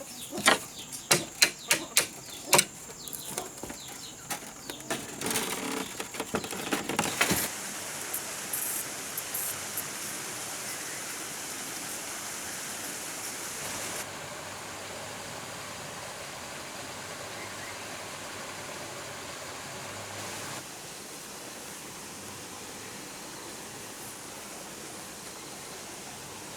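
A quick, irregular run of sharp knocks or taps for the first several seconds, then a steady hiss.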